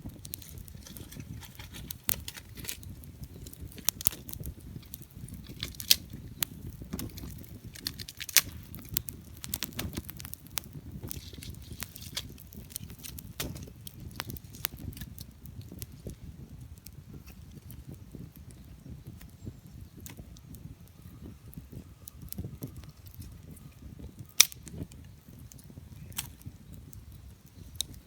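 Burning firewood crackling, with irregular sharp pops and snaps over a low, steady rumble.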